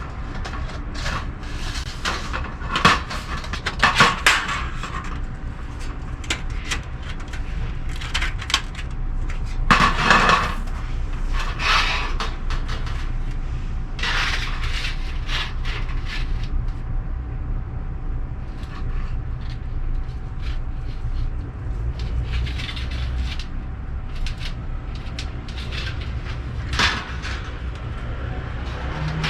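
Irregular knocks and clinks of metal and wood being handled, over a low steady hum.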